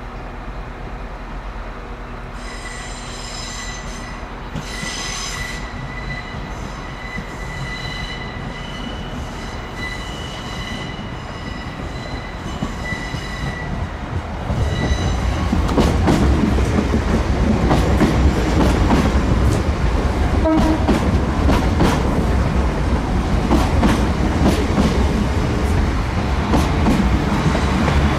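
Irish Rail train on the station tracks. A high-pitched wheel squeal comes and goes for the first half, then about halfway through the sound turns into a much louder rumble of the train running close by, with rapid clicks of wheels over rail joints.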